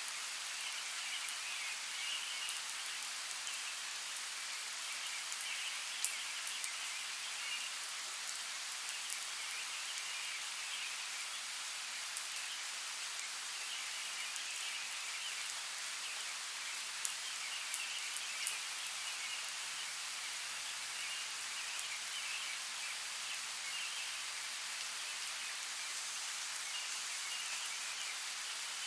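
Steady rain, a constant hiss with a few sharper drop ticks near the start and about two-thirds through. Behind it, a faint high chorus comes and goes in waves.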